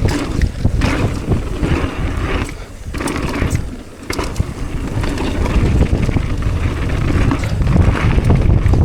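Wind buffeting the microphone over the rolling and rattling of a mountain bike riding down a dirt trail. The noise drops away briefly twice, around three and four seconds in.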